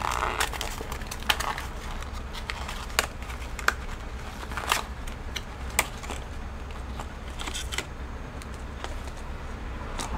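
Hands handling small computer hardware: about half a dozen sharp clicks and light rattles, spread irregularly, over a steady low hum.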